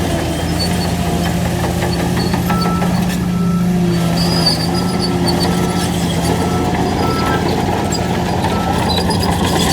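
Heavy diesel construction machine running steadily, with its reversing alarm giving short high beeps about once a second.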